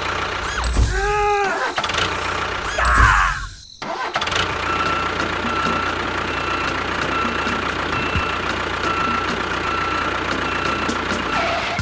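A small motor running steadily, with faint regular ticking. It is preceded by two short pitched sounds that rise and then fall, before a sudden cut.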